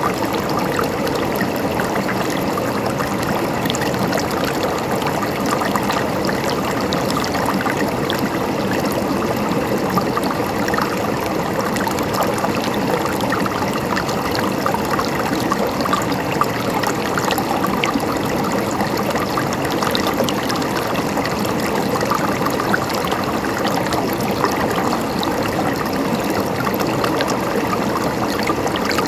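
Mountain stream flowing and gurgling over rocks, a steady babble of water with many small splashes.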